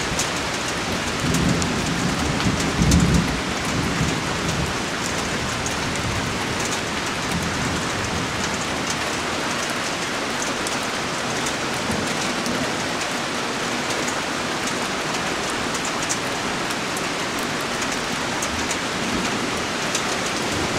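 Steady rain falling on a wooden deck and the forested hillside around it, with a low rumble of thunder in the first few seconds.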